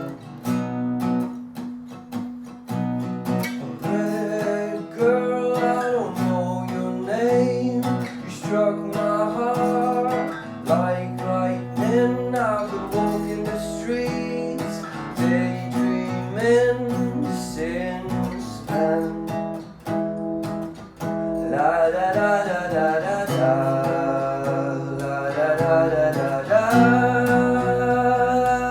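Acoustic guitar strummed steadily, with a gliding melody line over the chords from about four seconds in.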